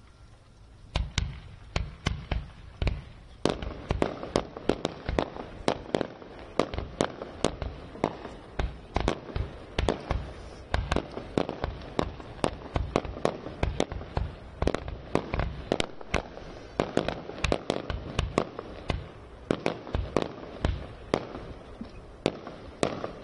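Aerial firework shells bursting in a continuous barrage, several sharp bangs a second, starting about a second in and stopping near the end.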